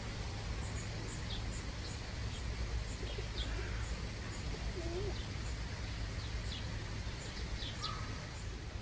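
Small birds chirping: many short, high chirps scattered throughout, with a couple of lower wavering calls around the middle, over a steady low background rumble.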